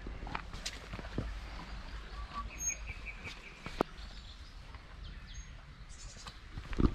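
Small birds chirping in open countryside over a low, steady rumble of wind on the microphone, with a few scattered sharp knocks and thuds; the loudest comes near the end.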